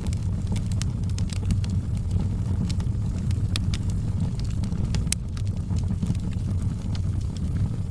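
Wood fire burning in a fireplace: a steady low rumble of flames with irregular crackles and sharp pops, one louder pop about five seconds in.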